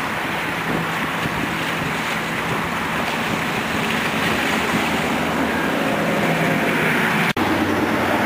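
Steady outdoor background noise of road traffic and wind, with a faint low hum through most of it and a brief dropout about seven seconds in.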